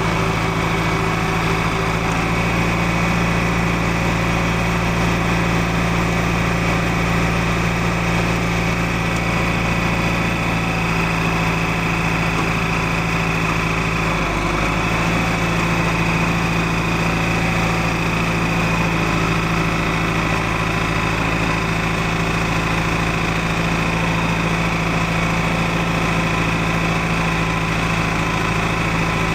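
Tractor engine running at a steady speed with an even drone, no revving, while towing a non-running tractor.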